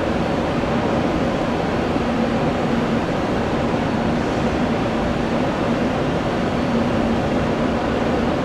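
Jet airliner engines running with a steady rushing noise and a faint low hum underneath.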